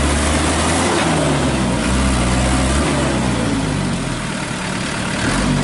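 Truck engine running at low revs, its pitch shifting up and down a few times over a steady noisy rush.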